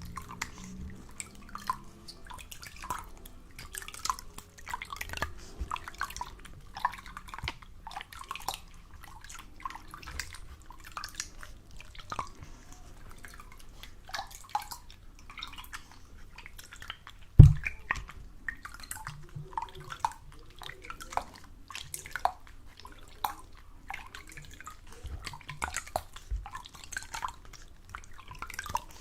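Water dripping in many small, irregular drops, several a second, with one heavy low thump a little past the middle.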